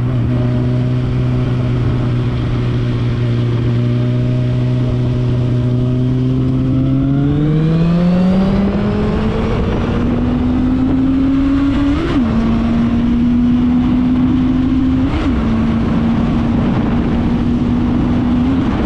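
Suzuki Bandit 650's inline-four engine breathing through a Scorpion aftermarket exhaust, holding steady revs. About a third of the way in the revs climb smoothly and then hold higher. Two short blips in engine speed come near the middle and a little after.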